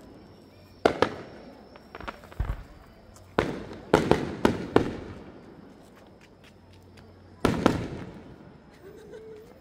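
Aerial fireworks shells bursting in sharp bangs, each followed by a fading echo. A single bang comes about a second in, then two lighter ones, then a quick run of five bursts around four seconds in, and a final pair near the end.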